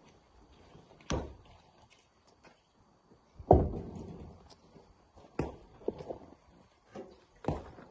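Rocks being handled in rock breaking and truck loading: four heavy knocks about two seconds apart, the second the loudest.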